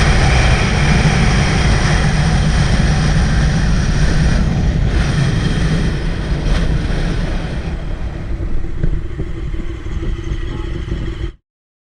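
Motorcycle running as it is ridden, a steady engine note with road noise. It cuts off abruptly to silence near the end.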